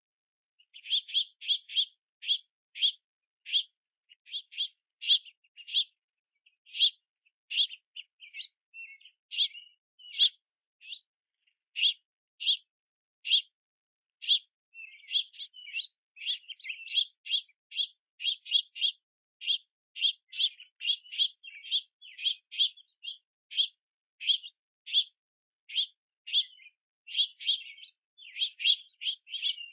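Juvenile house finches begging for food: a steady run of short, sharp chirps, about one to two a second, some bunched in quick clusters.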